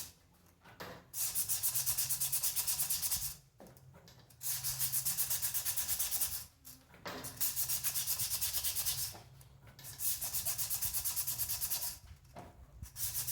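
Coarse 40–50 grit sandpaper scrubbed back and forth on a motorcycle's rear drum brake parts. It comes in five runs of quick strokes, about five a second, with short pauses between the runs. The sanding takes the glaze off a brake that grabs and makes noise.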